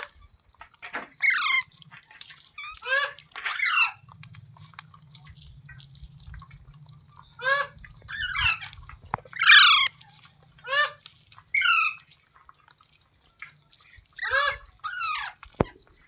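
Indian ringneck parrot (rose-ringed parakeet) calling: about a dozen short, shrill squawks, each falling in pitch, coming singly or in quick pairs with gaps between.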